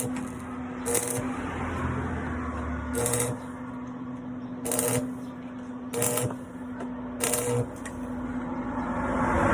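Welding work: a steady electrical hum with five short, sharp bursts, one every one to two seconds.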